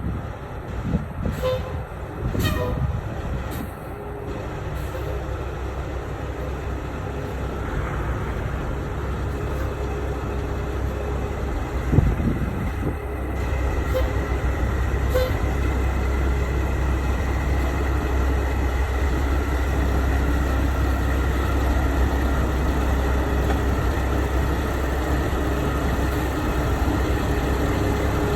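Heavy truck engine running with a steady low rumble, getting louder about halfway through, after a few sharp clicks at the start.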